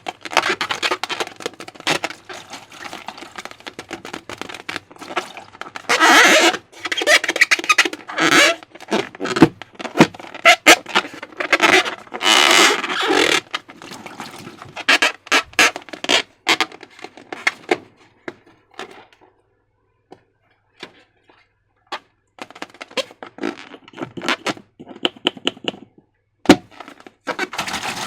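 Slime being worked by hand: a dense run of sticky crackles, clicks and squelches, louder in stretches and broken by a short quiet gap about two-thirds of the way through.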